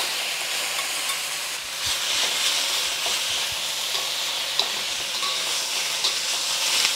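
Raw chicken pieces sizzling in hot oil in a wok, stirred with a wok spatula that taps and scrapes the pan now and then. The sizzle grows stronger about two seconds in as the chicken is spread out.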